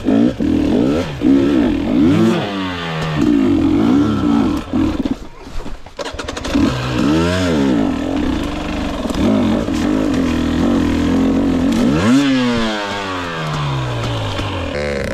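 2022 GasGas EX 250 two-stroke enduro motorcycle engine being ridden on and off the throttle, its pitch rising and falling over and over as it revs up and drops back, with a brief lull in the engine near six seconds.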